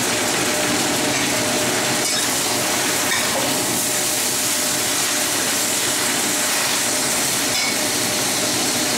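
Choy sum sizzling in a hot wok over a gas flame: a steady, even frying sizzle, with a few light scrapes of a metal spatula against the wok as the greens are tossed.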